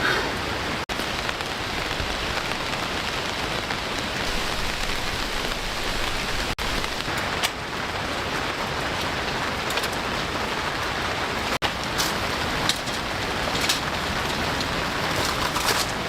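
Steady rain falling, with a few sharper drops or taps standing out, mostly in the second half.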